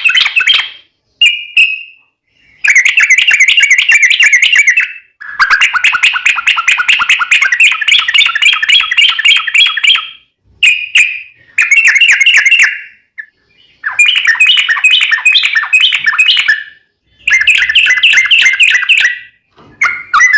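Yellow-vented bulbul singing: loud phrases of rapid, chattering notes, each lasting from about one to five seconds, with brief pauses between them. The longest phrase runs about five seconds near the middle.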